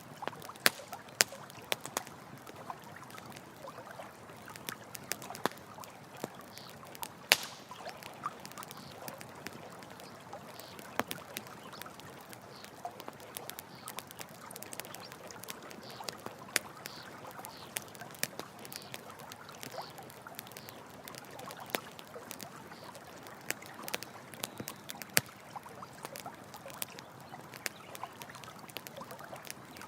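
Campfire crackling, with sharp irregular pops throughout, over a steady flow of running water.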